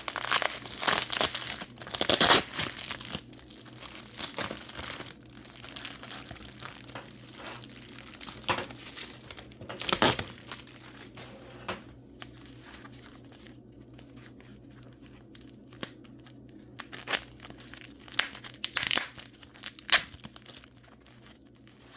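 Packing wrap around mineral specimens being torn and crumpled by hand, in irregular rustling spells. The bursts are heaviest in the first few seconds, come again about ten seconds in and near the end, and are sparse in between.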